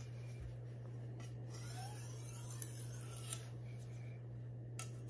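Wusthof Classic chef knife's steel blade rubbing slowly across a sharpening stone in a hand-sharpening stroke, faint and even, over a steady low hum.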